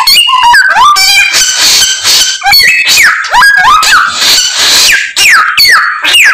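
A samyong songbird singing loud and non-stop, its song packed with mimicked phrases: quick falling whistles, rapid trills and scratchy squeaky notes following one another without a break.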